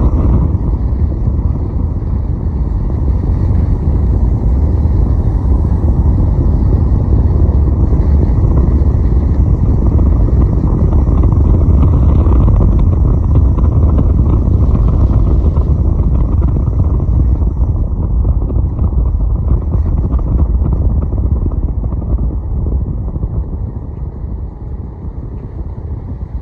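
Riding noise from a moving motorcycle: heavy, steady wind rumble on the microphone over the engine and road noise, easing off near the end.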